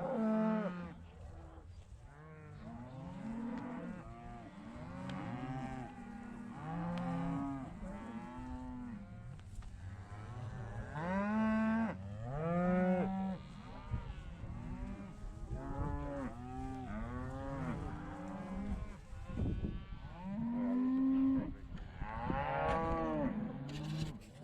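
A herd of cattle mooing and bawling continuously, many animals calling over one another with long arched calls.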